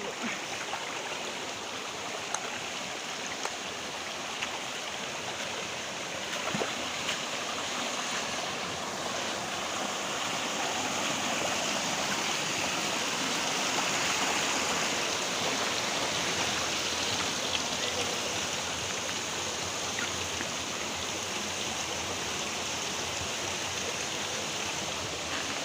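Steadily rushing stream water, an even hiss that swells a little towards the middle and eases off again.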